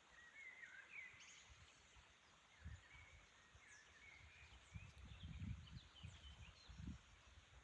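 Faint forest birdsong: short warbling chirps and whistles that come and go, with a few low dull thuds in the second half.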